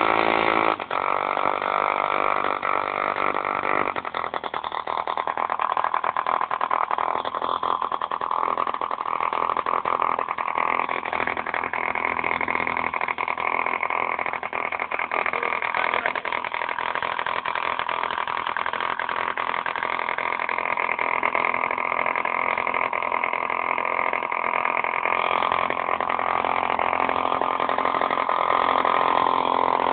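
Model diesel engine running steadily at speed.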